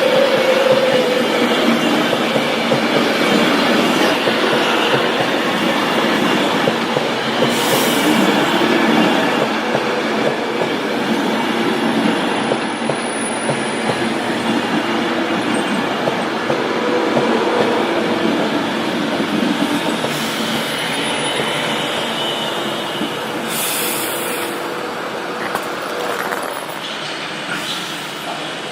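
A train running along the tracks through the station, its wheels rolling and squealing on the rail, the sound slowly fading.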